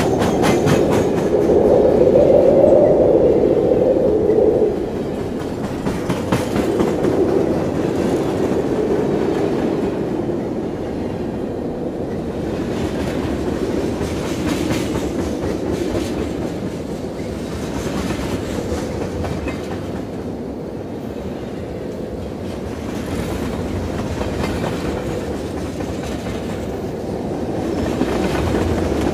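A train running along the track, with a continuous rumble and the clickety-clack of wheels over rail joints. It is loudest in the first few seconds, then steadier and a little quieter.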